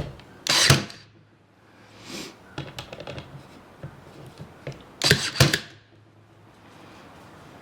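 Small nail gun firing into scrap wood twice, once near the start and once about five seconds in, each a quick double crack, with lighter knocks of wood being handled in between.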